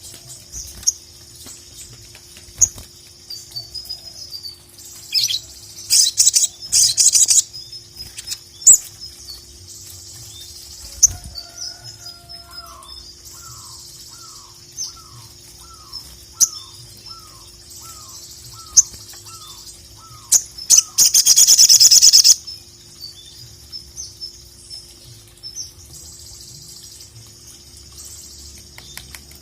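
Sogok ontong (sogon) bird singing in bursts of sharp high chirps and trills. Midway comes a run of about a dozen quick, evenly spaced lower notes, and about three quarters through a loud buzzy rattle lasts a second or so.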